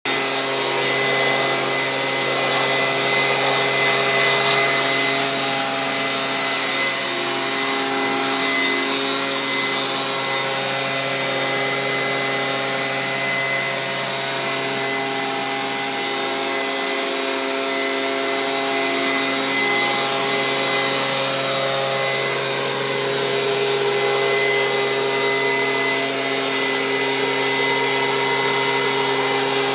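Leaf blower running steadily, its motor hum under a rush of blown air, used to dry a freshly washed truck.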